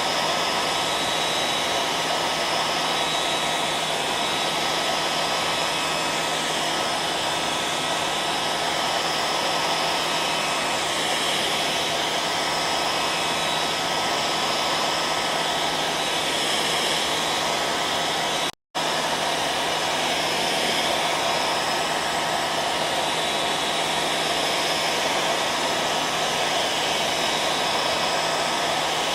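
Hair dryer running steadily: an even rushing of air with a low motor hum and a faint steady whine. About two-thirds of the way through it cuts out for an instant and comes straight back.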